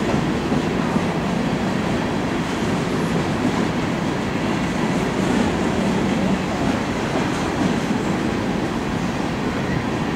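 Empty coal hopper cars of a freight train rolling past, a steady rumble of the wheels on the rails.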